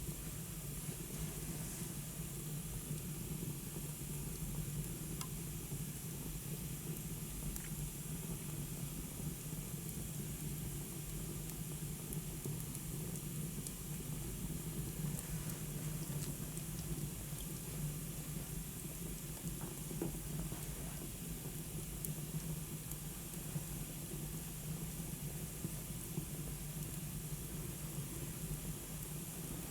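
Wood fire burning in a fireplace: a steady hiss with scattered small crackles.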